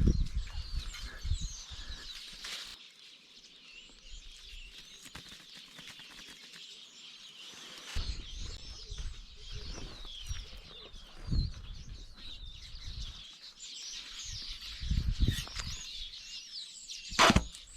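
Many small wild birds chirping and twittering, with low rumbles of handling or wind on the microphone. A short, sharp sound cuts across the chirping near the end.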